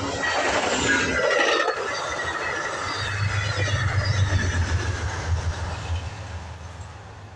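Amtrak Hiawatha passenger train passing at speed, with a dense rush of wheel and rail noise and faint high whines near the start. A low hum swells about three seconds in, and the whole sound fades away as the train recedes.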